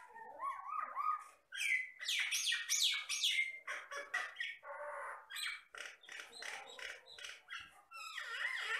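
A jalak batam myna singing energetically: a fast, unbroken run of varied whistles, gliding notes, sharp chirps and harsh rasping calls.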